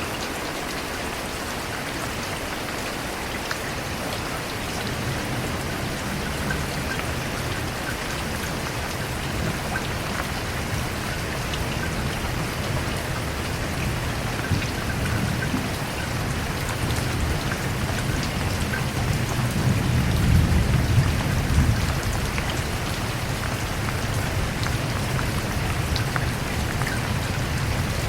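Steady rain falling, with a low rumble of thunder that builds from a few seconds in and is loudest about two-thirds of the way through.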